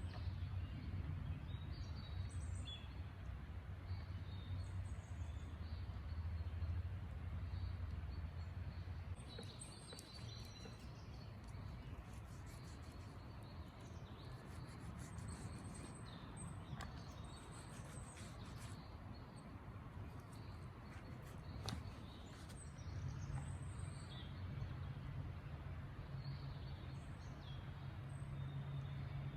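Wild birds chirping repeatedly in short high calls over a steady low rumble of outdoor background noise, with scattered light taps and clicks in the middle stretch.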